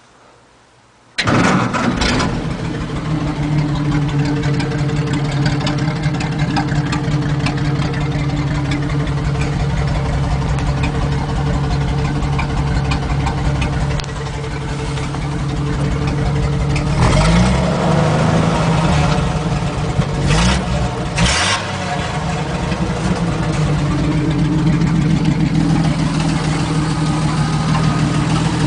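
Ford F3 pickup's 226 flathead inline six with a straight-pipe exhaust fires up about a second in and settles into a loud idle. About two-thirds of the way through it is revved briefly several times, the pitch rising and falling, then it goes back to idling.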